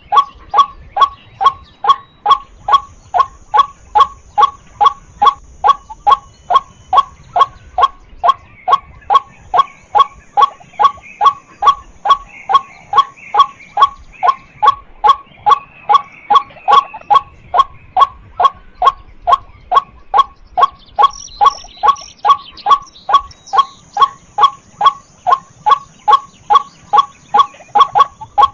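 Female white-breasted waterhen calling a loud, repeated 'kwak' note over and over at an even pace, a little over two calls a second, without a break.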